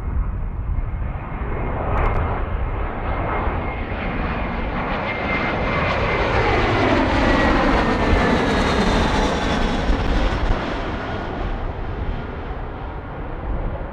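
Jet airliner passing close by. The engine noise builds to a peak about eight seconds in and then fades, with a thin engine whine that drops slightly in pitch as it goes by.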